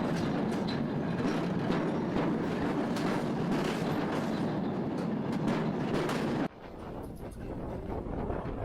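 Train running on rails, wheels and cars rattling with many small knocks; it cuts off abruptly about six and a half seconds in, leaving quieter wind noise.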